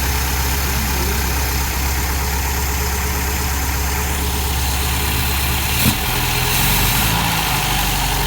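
1973 MGB GT's freshly rebuilt 1.8-litre four-cylinder engine idling steadily just after its first start, a purr. About six seconds in there is a short click, and the engine note then shifts and swells slightly for a moment.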